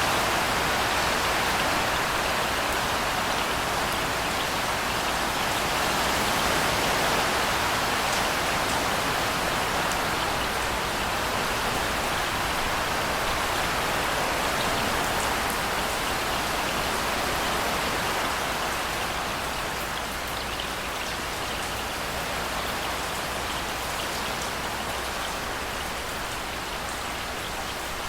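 Steady rainfall, a dense even hiss with faint scattered drop ticks. It eases slightly about two-thirds of the way through.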